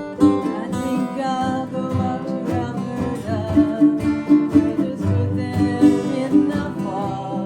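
Acoustic guitar strummed in a steady rhythm in a slow country-folk tune, with a wavering melody line carried over it.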